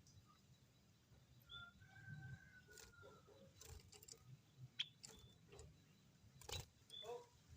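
White-headed munia giving soft, thin calls: a drawn-out whistle that falls slightly in pitch, starting about a second and a half in, plus a few short high chirps. Scattered light clicks and taps sound among the calls.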